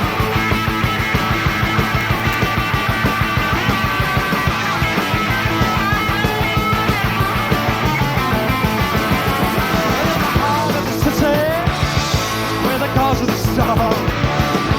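Live rock band, electric guitars, bass guitar and drums, playing an instrumental break at a fast, driving beat, with sliding guitar notes near the end.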